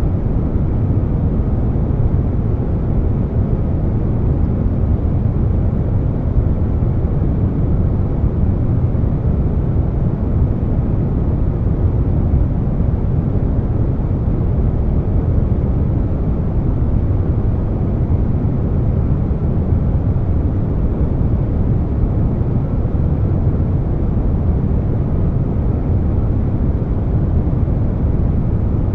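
Air conditioner noise layered with brown noise: a steady, deep hiss weighted toward the low end, with no changes in level.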